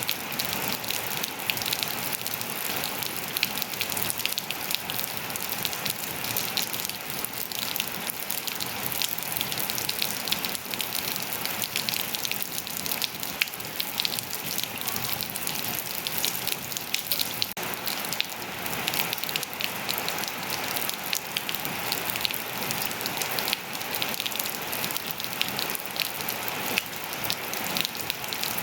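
Steady rain falling on surfaces, a continuous hiss dense with the patter of countless small drop impacts.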